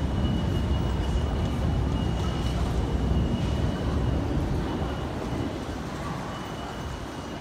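Low rumble of railway equipment and trains at a station platform, loud at first and fading after about five seconds, with a faint high steady tone coming and going.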